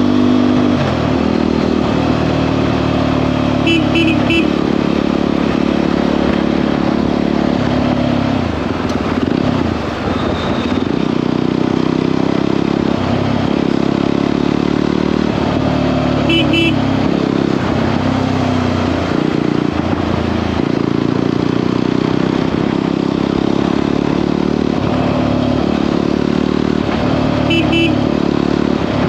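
Jawa 42 motorcycle's single-cylinder engine running steadily at highway riding speed, its pitch shifting with throttle, with three short high toots spaced about twelve seconds apart.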